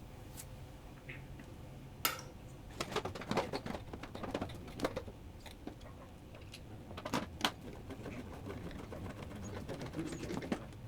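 Motorcycle plastic side panel being fitted back on and its bolt fastened: scattered clicks and knocks of plastic and metal, a sharp one about two seconds in, a quick run of them after that, and two more a little past the middle.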